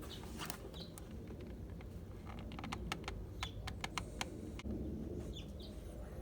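A run of quick, light clicks and taps, about a dozen of them bunched between two and four and a half seconds in, with a few short, high bird chirps.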